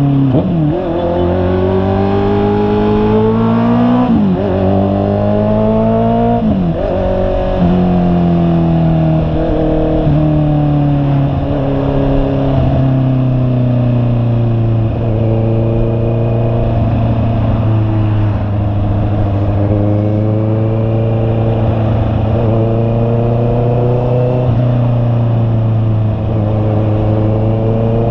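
Honda CB650R's inline-four engine accelerating through the gears. Its pitch climbs and drops at upshifts near the start, about four seconds in and about six and a half seconds in, then holds a steady note at cruising speed with small rises and falls.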